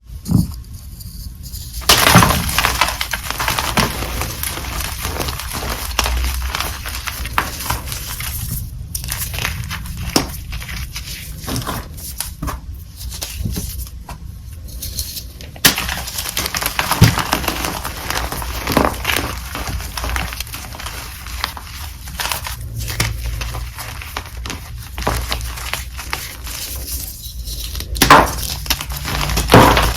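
Dyed chalk being crushed and crumbled, a steady run of crunching and crackling with sharp loud crunches about two seconds in and again near the end.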